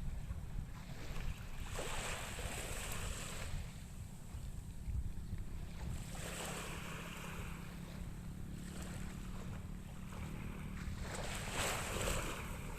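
Small waves washing in on a calm sea, four soft swells of surf over a steady low rumble of wind on the microphone.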